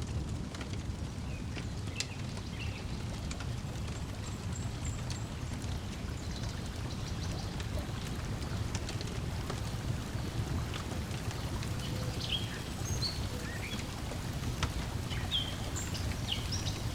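Lakeside ambience: a steady low wash of water lapping at the shore, with scattered sharp crackles from a wood fire and short bird chirps, more of them in the second half.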